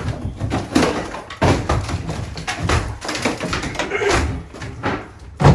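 Demolition work inside a house being gutted: irregular knocks and bangs of tools and debris, with a loud bang near the end.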